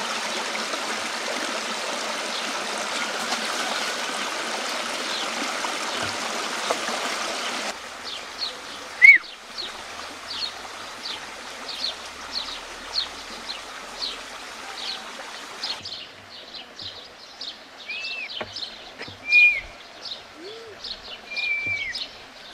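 Flowing river water rushing steadily for about eight seconds, then, after a cut, many small birds chirping rapidly over a faint water background, with a few louder single calls near the end.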